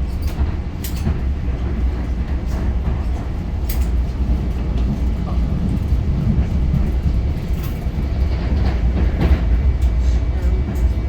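Commuter train running, heard from inside a passenger car: a steady low rumble of wheels on track, with a few sharp clicks and knocks scattered through it.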